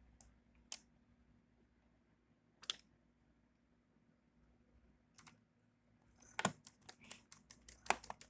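Sharp clicks and taps from a laptop being handled: a few single clicks spaced seconds apart, then a quick run of clicks near the end.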